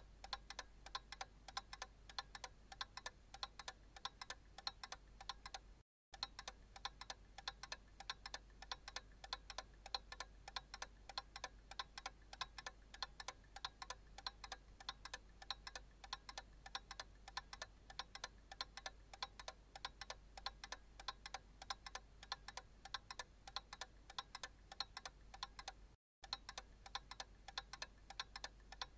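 Analog clock ticking steadily with even, sharp ticks. The sound cuts out for an instant twice, about 6 seconds in and again near the end.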